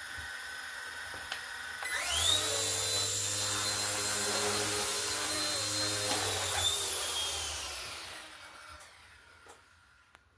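Small electric motor whining. It spins up sharply about two seconds in, holds a steady speed, then winds down and fades out.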